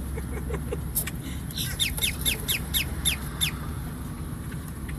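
A bird calling: a quick run of about eight short chirps, each falling in pitch, over a steady low rumble.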